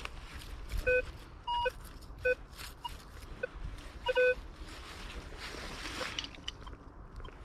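Minelab Vanquish 440 metal detector giving short target beeps as its coil is swept, mostly a low tone with a few higher-pitched ones. There is a brief rustle about five and a half seconds in.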